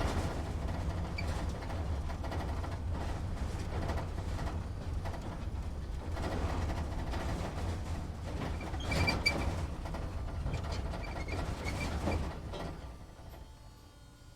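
Truck engine heard from inside the cab, running with a steady low rumble while driving slowly, with light rattles and short squeaks from the cab. The rumble dies away about two seconds before the end.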